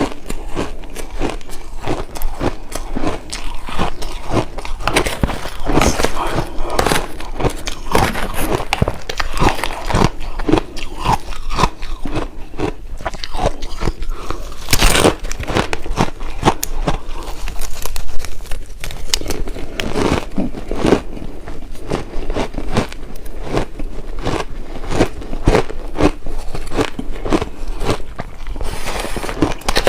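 Close-miked chewing and crunching of shaved ice: a continuous run of crisp, crackly crunches, with one louder bite about halfway through.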